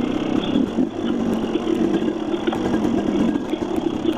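Dirt bike engine running steadily at an even, low speed.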